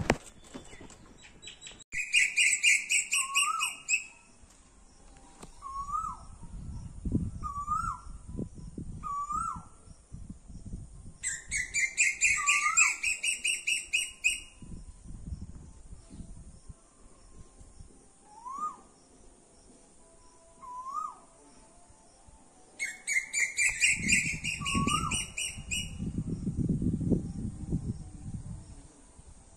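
Birds calling. Short rising whistled notes repeat about once a second, and three times a loud, rapid, shrill chattering series runs for two to three seconds. A low rumble comes in places.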